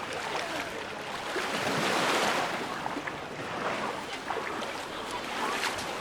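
Sea water washing in small waves, a hiss of surf that swells about two seconds in and eases again.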